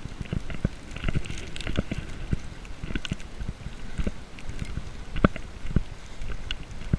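Footsteps crunching through deep snow, an uneven two or three steps a second.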